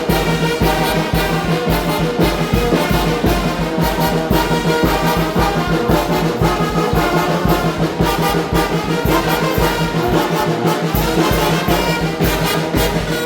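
Mexican brass band (banda) playing a huapango, brass instruments carrying the tune over a steady low beat.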